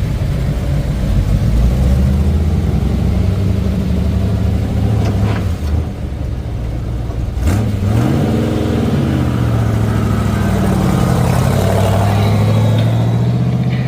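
A pulling truck's engine running loudly. About seven and a half seconds in it cuts briefly with a sharp click, then revs up in a dip-and-climb of pitch and holds high and steady.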